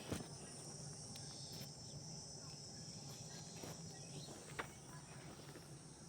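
Faint, steady high-pitched insect chirring, with a low hum beneath it and a few soft clicks.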